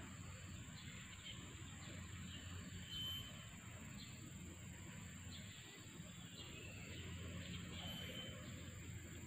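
Faint outdoor ambience: a few short, high bird chirps now and then over a low rumble and a steady high hiss.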